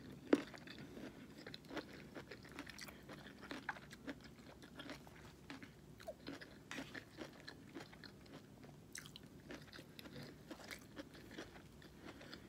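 A person chewing food with soft crunches and wet mouth clicks in an irregular run, the sharpest click about a third of a second in.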